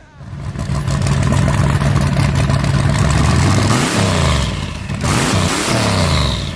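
Twin-turbo 355 small-block V8 of an 85 Trans Am running hard at a high steady pitch, then its note swinging down and up twice near the end.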